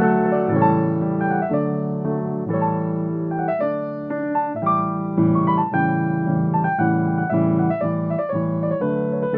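Solo piano playing, with a melody over chords struck again and again in the lower register.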